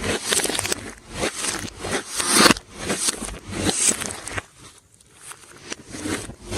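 Glossy slime being pressed, stretched and kneaded by hand: repeated sticky bursts of noise, roughly one to two a second, with a brief pause about two-thirds of the way through.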